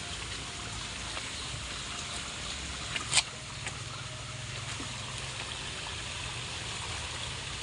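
Steady rain falling, an even hiss of water, with one sharp knock about three seconds in.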